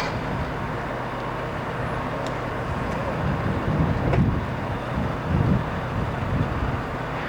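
A heavy vehicle running, with a steady low hum and regular low rumbling swells about once a second.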